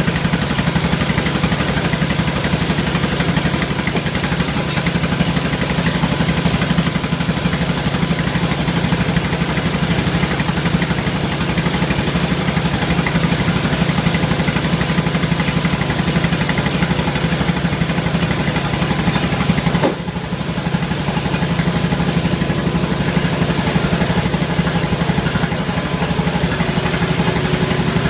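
Small engine running steadily just after a cold start on a freezing day, with a fast even firing beat. It dips briefly about two-thirds of the way through, then picks up again.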